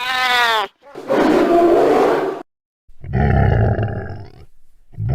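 A series of loud animal roars and growls, four separate calls with short gaps between them: the first has a clear wavering pitch and the later ones are rough and rumbling.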